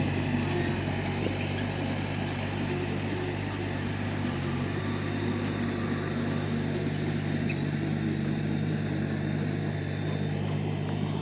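Komatsu D31P bulldozer's diesel engine running at a steady speed.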